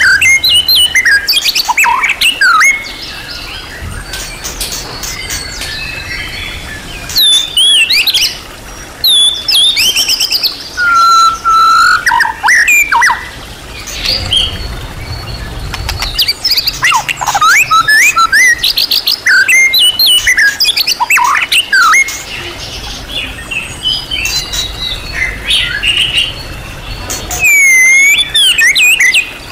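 White-rumped shama (murai batu) singing a long, varied song packed with imitated phrases: loud bursts of clear whistles, rising and falling sweeps and fast chattering trills, broken by several short quieter spells.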